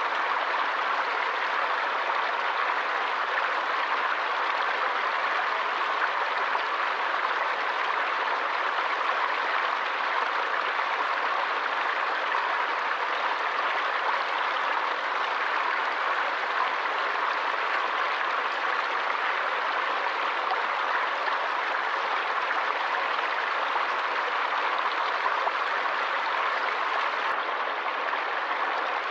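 Stream water flowing steadily: an even, unbroken rush of running water.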